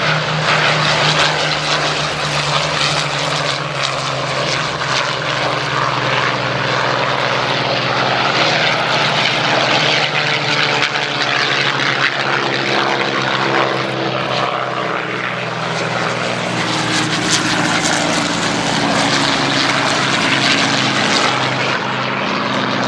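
Propeller-driven V12 piston engines of Spitfire and Hurricane fighters flying past, a loud continuous engine drone whose pitch falls as the aircraft pass, around the middle.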